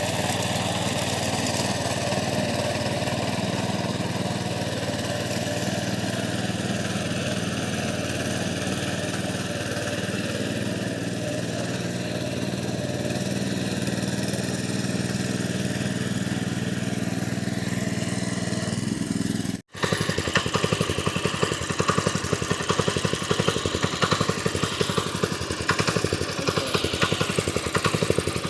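Mini tractor's engine running steadily while ploughing a field. After a brief dropout about two-thirds of the way in, the engine is louder and more rapidly pulsing.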